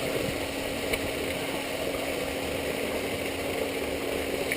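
Off-road vehicle's engine idling steadily, a constant hum at an even level.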